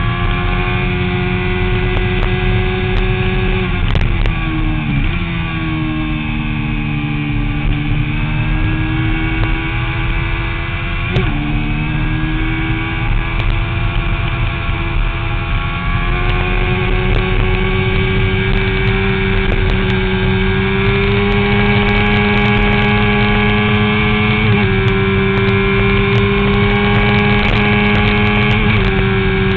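Motorcycle engine at speed, heard from an onboard mount. Its pitch drops about four seconds in and stays low through a leaning corner, then climbs again as it accelerates out, stepping abruptly at several gear changes.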